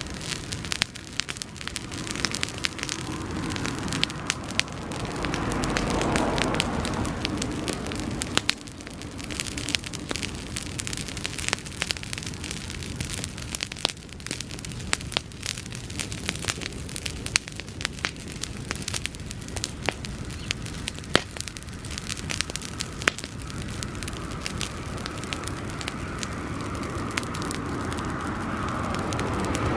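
Bonfire of dry grass burning, crackling and popping irregularly. A rushing swell builds and fades about five seconds in, and rises again near the end.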